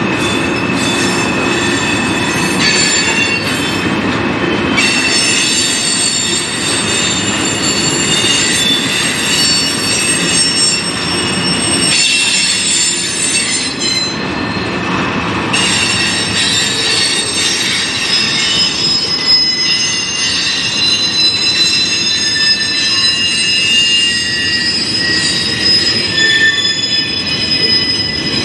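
Freight train of tank cars, hoppers and boxcars rolling past, with a steady rumble of wheels on rail. Several high, steady squealing tones from the wheels come and go over it.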